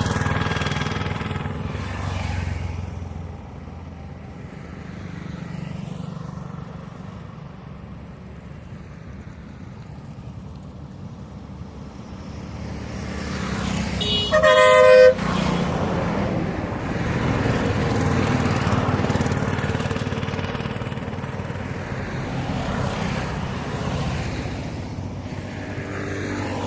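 Road traffic passing: a vehicle goes by at the start, and after a quieter stretch another approaches and passes. About halfway through a vehicle sounds its horn once for about a second, the loudest sound.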